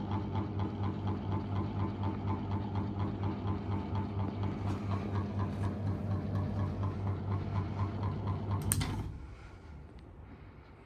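GMC 800 mm mini ceiling fan running with a steady low motor hum that pulses about four times a second. About nine seconds in there is a sharp click and the hum dies away quickly, as when the fan is switched off.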